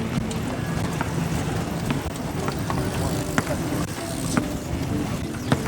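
Motorcycle engine running steadily as the bike rides through city traffic, with a few sharp clicks in the second half.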